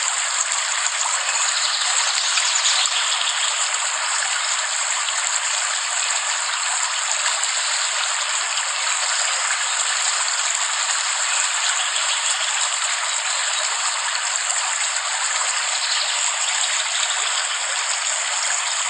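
Steady rain falling, an even hiss of many drops with no low rumble.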